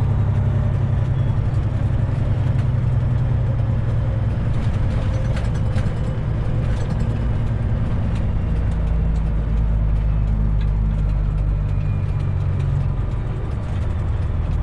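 Semi truck's diesel engine running steadily, heard from inside the cab; its low note drops lower about eight seconds in.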